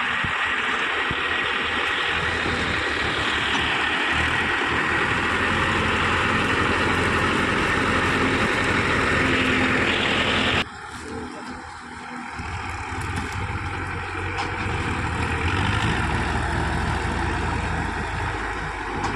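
Mahindra tractor's diesel engine running steadily; about halfway through the sound drops abruptly to a quieter level, then gradually builds back up.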